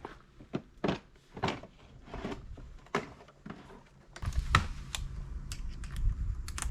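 A series of irregular knocks and clicks, as of hand work with tools or materials. A low steady hum starts about four seconds in.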